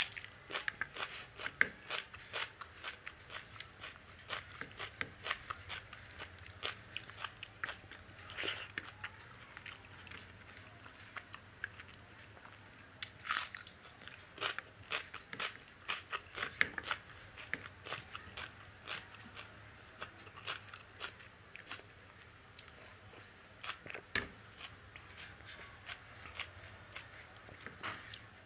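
Close-miked eating of dal and rice by hand: wet chewing with many crisp crunches and sharp clicks, some from biting raw onion.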